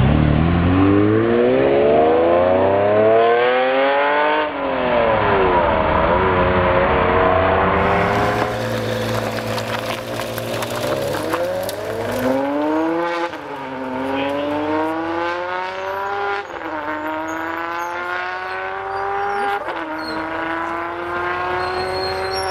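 Ferrari 12-cylinder engines accelerating hard through the gears: first a Ferrari 512 TR's flat-12, then a Ferrari 599 GTO's V12 pulling away. The pitch climbs with each gear and drops sharply at each upshift, with long rising pulls in the later part.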